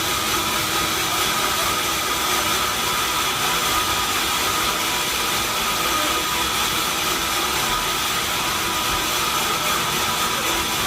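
Sawmill log-sawing machinery running steadily: a continuous hiss with a steady whine on top, unchanging in level.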